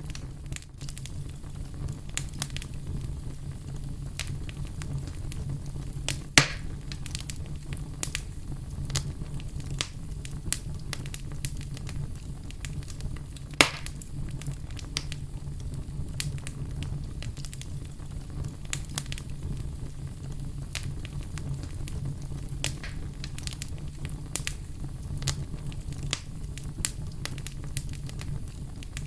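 Fire crackling: many small snaps over a steady low rumble, with two louder pops about six and fourteen seconds in.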